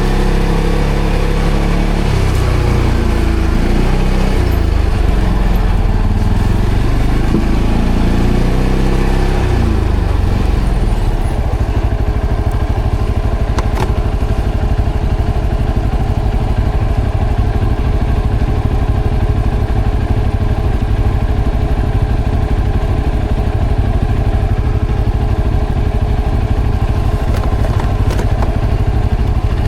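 ATV engine revving up and down for about the first ten seconds, then running at a steady pitch.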